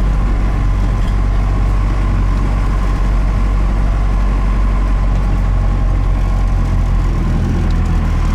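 Cummins 4BT four-cylinder turbo diesel in a Ford F-150, heard from inside the cab while the truck drives slowly up a dirt track; the engine note shifts about six and a half seconds in.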